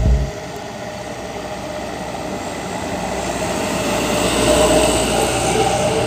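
Truck engine running steadily, growing gradually louder over the first few seconds before levelling off.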